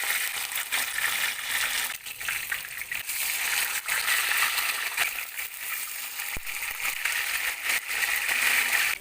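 Parrot fish frying in hot oil in a pan: a loud, steady sizzle full of sharp crackles and pops.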